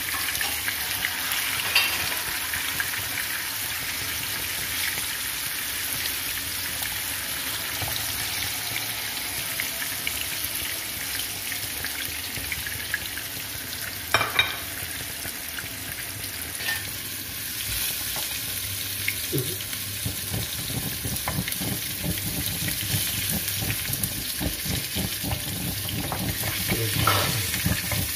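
Tofu blocks deep-frying in hot oil, a steady sizzle and crackle, with a couple of sharp knocks against the pan, about two seconds in and about halfway through.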